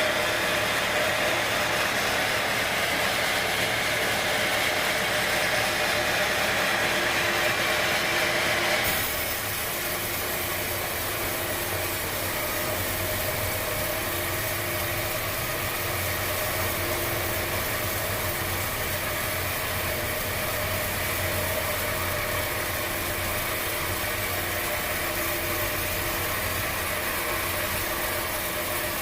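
Machinery running steadily, with a hum and a hiss. About nine seconds in the sound changes abruptly to a slightly quieter, lower hum.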